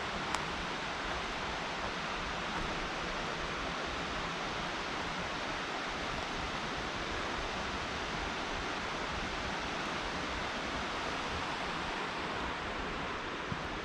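Steady rush of a mountain river's flowing water, with a faint click just after the start.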